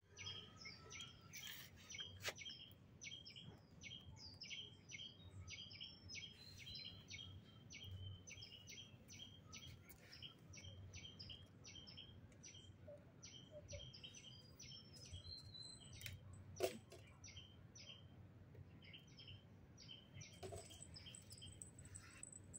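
Small birds chirping faintly and steadily, short high chirps a few times a second, with one sharp click about two-thirds of the way through.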